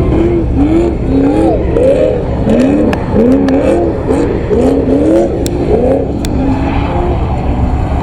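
Car engines revving over and over, in quick overlapping blips that rise and fall in pitch, over a heavy low rumble.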